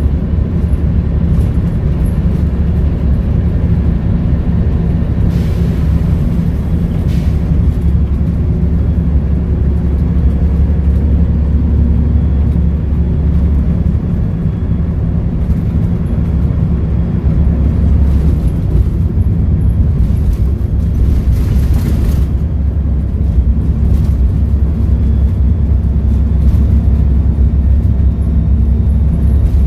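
Volvo B7RLE bus's six-cylinder diesel engine running steadily, a loud low drone, with a few short hisses over it, the longest about twenty seconds in.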